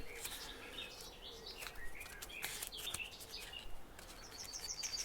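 Songbirds chirping in the background, with short rising and falling calls and a quick trill of about eight high notes near the end.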